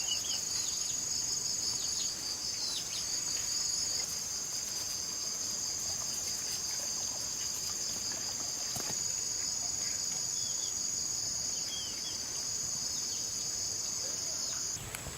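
Insects trilling in a steady, high-pitched chorus with a fast pulsing beat, with a few faint short chirps over it; the chorus cuts off suddenly near the end.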